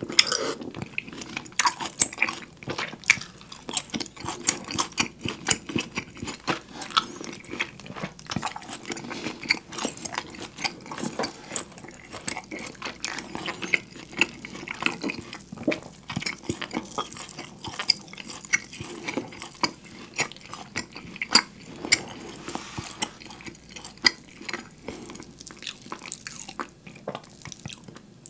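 Close-miked eating sounds of a man chewing a large, thick beef steak: a dense, uneven run of quick smacking clicks from mouth and teeth, with pieces of meat pulled apart by hand in between.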